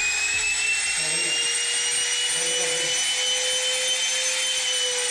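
Electric power tool motor running at full speed with a steady high whine.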